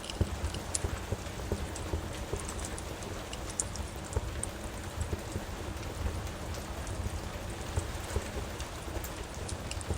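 Steady rain falling, with scattered sharp pops and crackles of a wood fire in a fireplace mixed in.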